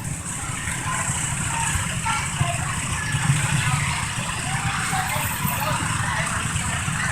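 Small garden tractor engine running steadily at low speed, with faint background voices.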